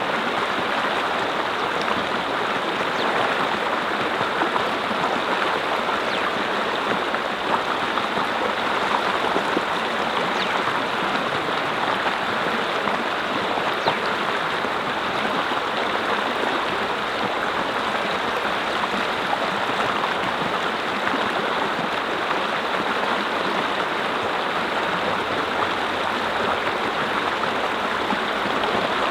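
Mountain brook flowing over rocks: a steady, unbroken rush and babble of water.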